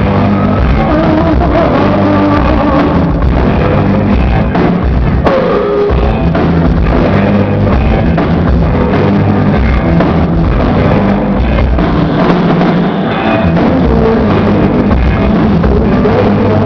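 Loud live rock band playing, with drum kit, guitar and a singer.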